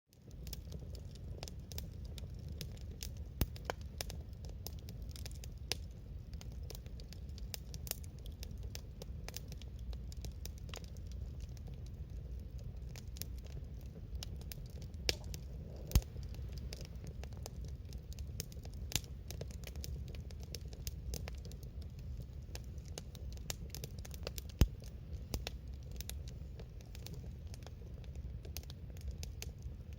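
Campfire burning: wood crackling with frequent sharp pops and a few louder snaps, over a steady low rumble.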